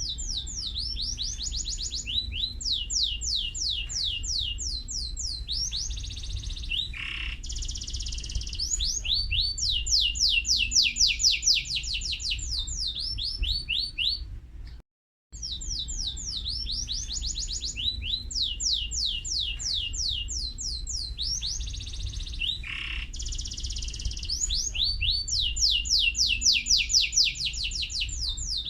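Domestic canary singing a long, high-pitched song of fast trills: runs of rapid, repeated downward-sweeping notes. The song breaks off briefly about halfway through, then starts again.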